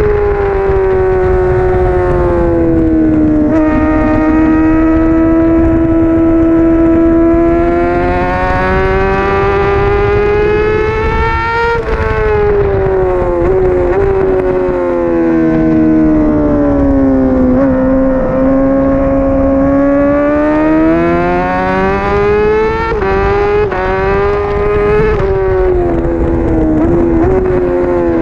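Honda CBR600RR's 599 cc inline-four engine at racing revs on track, its pitch rising under throttle and falling off again through the corners, with a sudden drop in revs about twelve seconds in and a few quick pitch steps near the end. Wind rush sits underneath.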